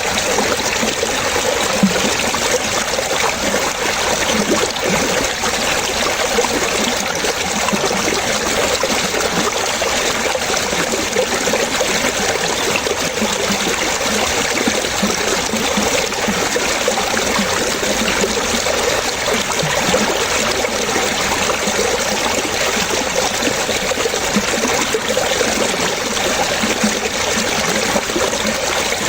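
Water splashing and trickling steadily, like a small stream running over stones, with a constant dense texture of small gurgles and splashes.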